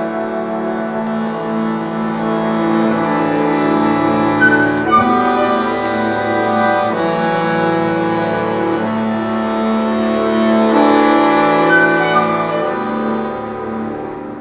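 Chamber orchestra playing slow, sustained chords of bowed strings and winds, with the harmony shifting every few seconds. The music fades away near the end.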